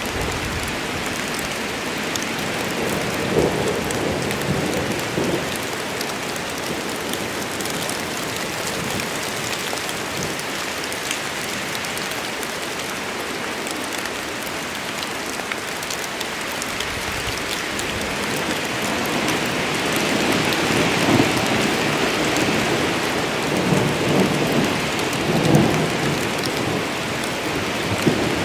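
Steady rain in a forest storm, an even hiss with scattered sharp drips. Low rumbles of thunder come in a few seconds in and again through the second half.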